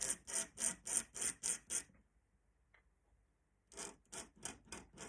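Dip-pen nib scratching across paper in quick repeated strokes, about three or four a second, pausing for a couple of seconds in the middle before a second run of strokes.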